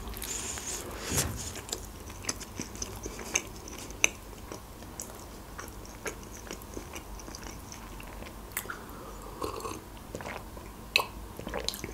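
Close-miked bite into a soft-bunned fish burger, then steady chewing with many small wet mouth clicks and smacks. Near the end, a sip from a glass.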